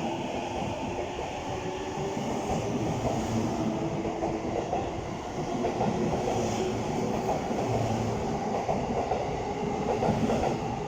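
JR East E233-1000 series electric commuter train pulling out of the station, its cars rolling past with a steady rumble and scattered knocks from the wheels on the track.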